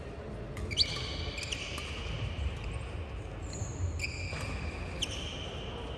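Badminton rally on an indoor court: sharp racket strikes on the shuttlecock and the high squeals of players' shoes on the court floor.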